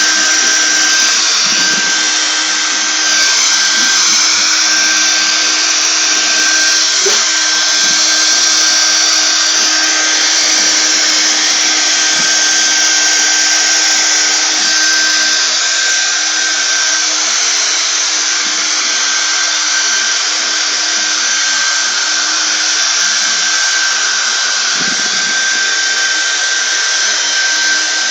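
Hand-held hair dryer running steadily: a rush of air with a high, constant motor whine.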